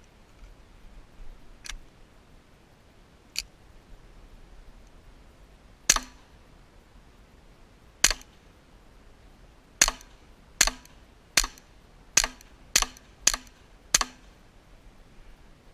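A string of sharp .22 shots from a Ruger 22/45 pistol, about nine, coming closer together toward the end, after one or two fainter cracks.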